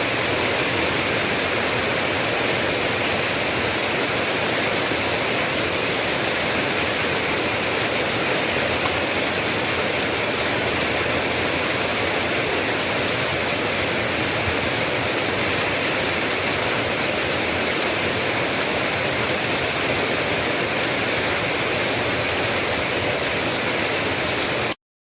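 Steady, even hiss of rain, cutting off suddenly near the end.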